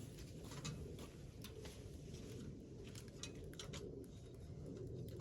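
Wood campfire crackling: irregular sharp pops and snaps over a steady low background noise.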